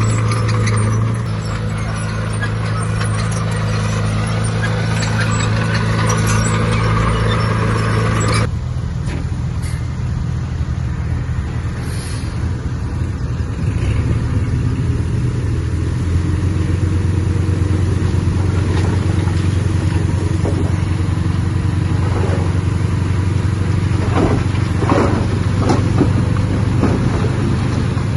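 Heavy diesel engine of earthmoving machinery running steadily, its sound changing abruptly about eight seconds in, with a few faint clanks near the end.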